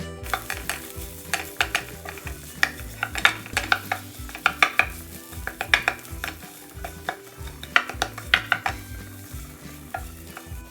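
A metal spoon or spatula clinking and scraping irregularly against a frying pan, over a faint sizzle of food frying in oil.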